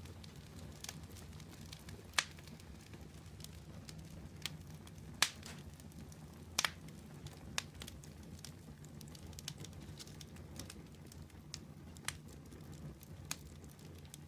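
Wood fire burning in a fireplace: a steady low rumble of flames with irregular sharp crackles and pops from the burning wood, the loudest pops about 2, 5 and 6.5 seconds in.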